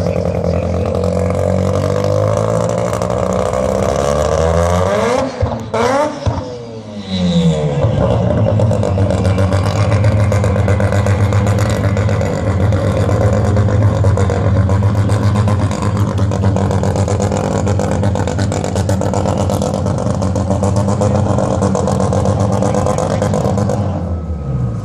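Loud drag-racing car engine running. Its pitch slides down over the first few seconds, then after a short break it settles into a steady, heavy idle that fades near the end.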